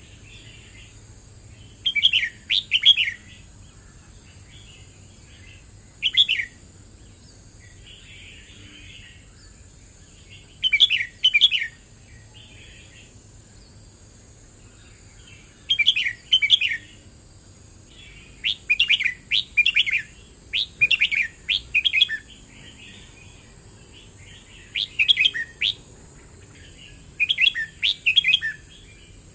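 Red-whiskered bulbul singing: short phrases of quick, bubbly notes, each about a second long, repeated every few seconds and coming in a quick run of several near the middle.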